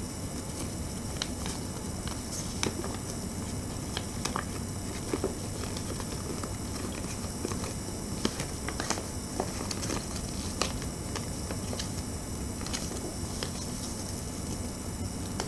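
Origami paper being folded and creased by hand: irregular small crinkles and taps over a steady background hiss.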